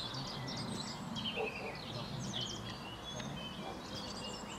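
Small songbirds chirping and singing, many short high chirps and down-slurred notes, over steady low background noise.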